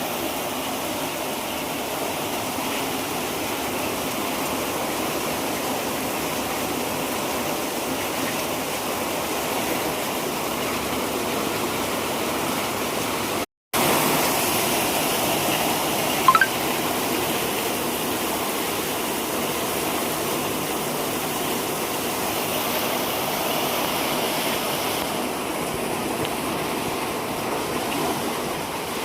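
Heavy rain pouring down in a steady, dense hiss. About halfway it cuts out for an instant and comes back a little louder, with a brief sharp chirp a few seconds later.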